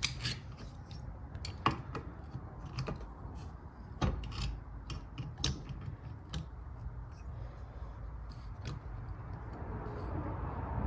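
Scattered clicks, taps and light scraping of metal hand tools and parts being handled, over a steady low hum.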